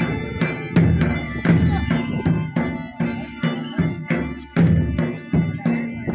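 Live traditional attan dance music: a drum beating a steady rhythm under a sustained wind-instrument melody.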